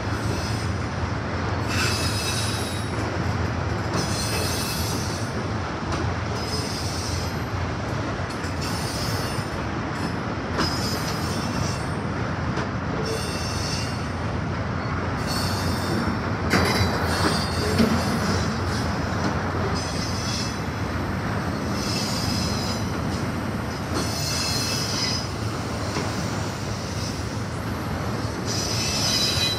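Autorack freight cars rolling past at close range: a steady rumble of steel wheels on rail, with high-pitched wheel squeal coming and going every second or two. A couple of sharp knocks a little past halfway.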